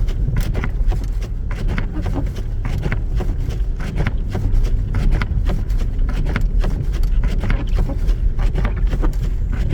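Cabin noise of a 2014 Jeep Grand Cherokee driving over a rough, snow-covered field track: a steady low rumble with frequent irregular knocks and clicks.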